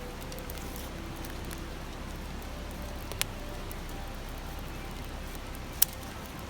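Campfire crackling with two sharp pops, one about three seconds in and a louder one near the end, over the steady babbling of a stream.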